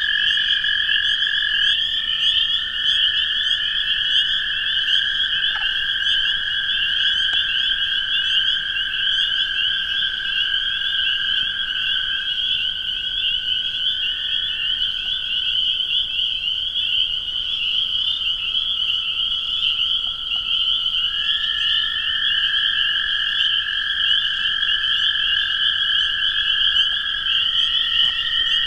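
A spring peeper chorus, many short rising peeps overlapping into a constant high-pitched din, over the long, steady trills of several toads at slightly different pitches. The toad trills overlap and hand over from one to another every few seconds.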